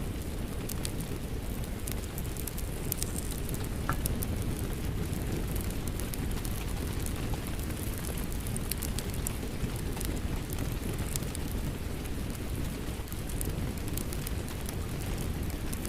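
Steady rain mixed with a crackling wood fire: a continuous low rumble of rain under scattered sharp crackles and pops from the burning logs, one pop standing out about four seconds in.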